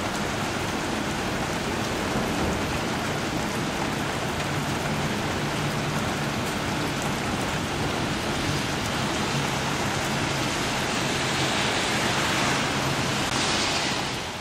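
Steady rain falling on a flooded street, with runoff water flowing over the pavement. It grows slightly louder near the end, then fades out.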